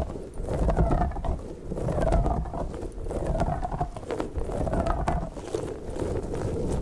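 Orange squishy slug toy being squeezed over and over, a squish with a short squeaky tone roughly every second, over a low rubbing rumble from handling.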